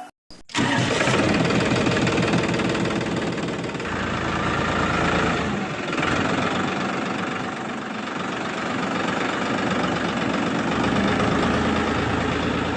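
A tractor engine running steadily at idle with a rapid knocking pulse. It starts abruptly about half a second in and cuts off suddenly at the end.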